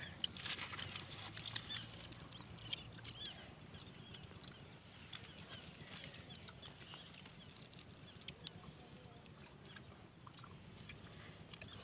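Faint, scattered high chirps like small birds calling, densest in the first few seconds, with occasional small clicks of pebbles shifting.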